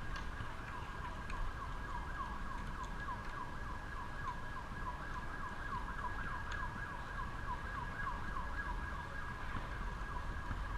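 Emergency-vehicle siren in its fast yelp mode, sweeping up and down about four times a second and fading near the end, over a steady low rumble.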